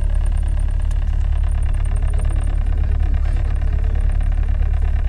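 Boat engine running steadily, a loud, even low drone, heard from aboard the boat.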